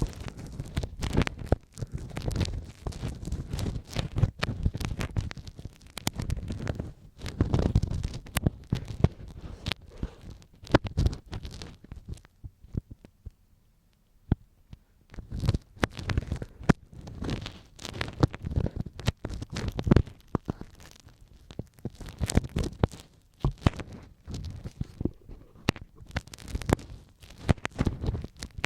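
Ear pick scraping and scratching close up in an ear, in clusters of strokes with crackling clicks over a low rumble. It eases off briefly about halfway through, then picks up again.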